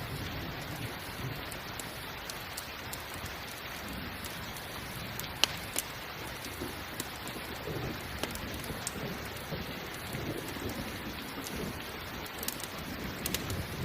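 Steady rain with a low thunder rumble, mixed with a crackling campfire whose sharp pops come at scattered moments, the loudest about five and a half seconds in.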